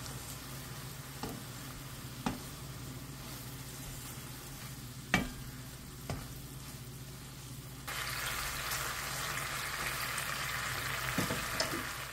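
Chicken pieces sizzling as they fry in a bubbling sauce that is reducing to a glaze in a nonstick pan, with metal tongs clicking against the pan a few times as the pieces are turned. The sizzling gets louder about eight seconds in.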